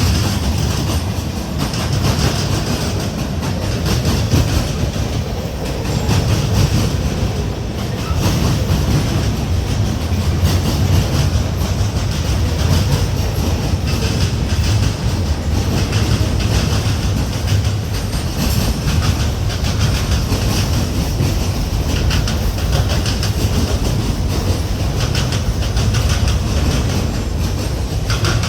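Freight train rolling past, its railcar wheels clicking over the rail joints in a steady, continuous run.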